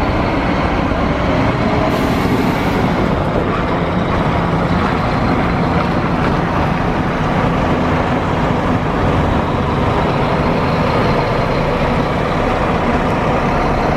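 Steady, loud drone of a Scania K440 double-decker bus's diesel engine together with road noise, holding an even level with no revving or sharp sounds.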